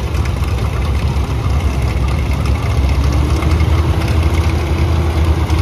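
Antique farm tractor engine running steadily, with a steady engine tone settling in about halfway through.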